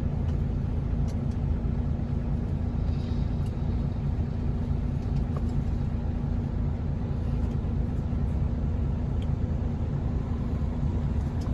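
Dump truck's diesel engine idling steadily, a low even hum with no change in speed.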